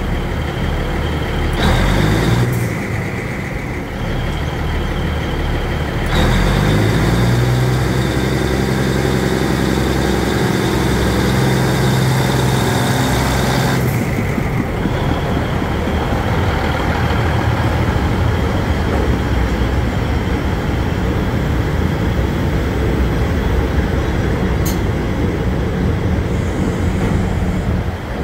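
A diesel train setting off and rolling slowly past at close range: the engine working under load, with the rumble of wheels and underframe going by.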